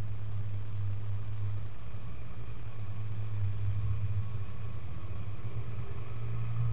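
Off-road 4x4 engine running at a steady idle.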